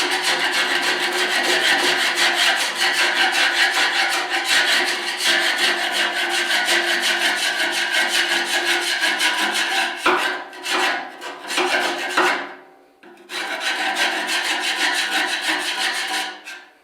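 A hand tool scraping rapidly back and forth against hard carbon deposits on the steel walls of a pellet stove's combustion chamber, taking the soot down to bare metal. The fast rasping breaks into a few separate strokes about ten seconds in, pauses briefly, then starts again and stops near the end.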